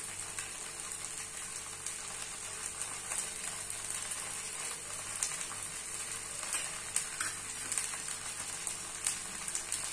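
Potato-and-poha batter pancake sizzling in oil on a hot flat griddle (tawa) over a low-to-medium flame, a steady frying hiss. A few light clicks of a metal spoon on the pan, mostly in the second half.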